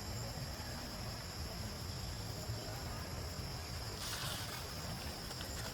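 Steady high-pitched insect drone over a low rumble of outdoor ambience, with light crackling and rustling starting about four seconds in.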